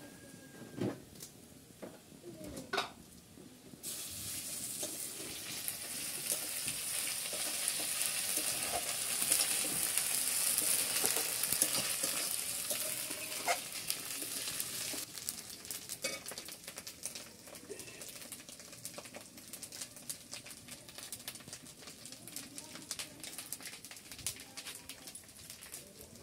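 Food frying in hot oil in a steel wok, stirred with a metal spatula that knocks and scrapes against the pan. The sizzle starts suddenly about four seconds in, is loudest a few seconds later, then slowly dies down.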